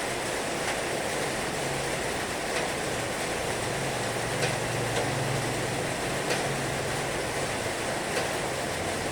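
Heavy rain pouring steadily, a dense even hiss with a few sharper taps scattered through it.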